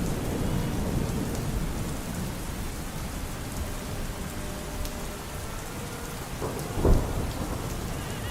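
Steady rainfall with a low rumble of thunder that is strongest at first and eases off. A single sharper, louder crack comes about seven seconds in.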